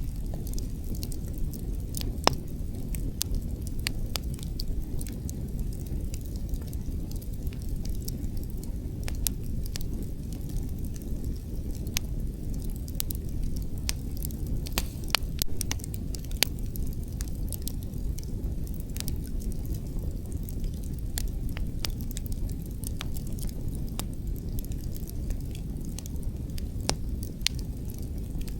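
Wood fire crackling, with frequent irregular sharp snaps and pops over a steady low rumble of wind.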